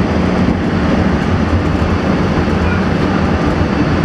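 Steady rumble and low hum of a moving vehicle.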